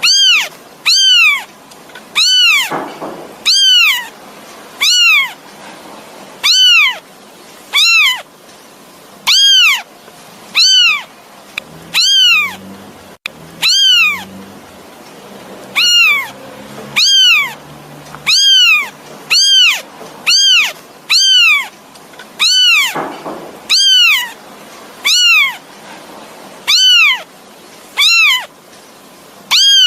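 Kitten meowing over and over, short high-pitched calls that rise and fall, about one a second: a kitten calling for its mother.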